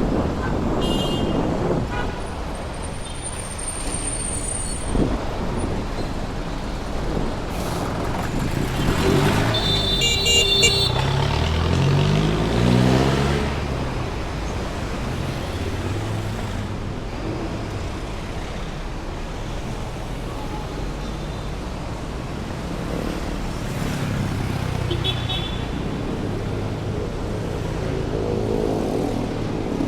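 Heavy city street traffic: steady engine and tyre noise from passing cars, trucks and motorcycles. A horn sounds briefly about ten seconds in, and a vehicle's engine revs up just after as it pulls away.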